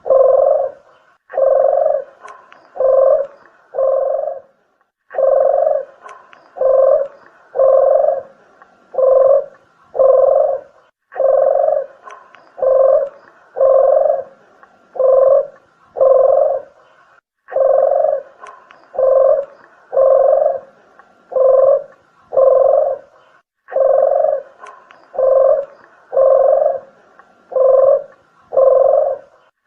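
Dove cooing over and over, the call known as deruk or puter geni: runs of four or five low coos with a short break between runs, about every six seconds.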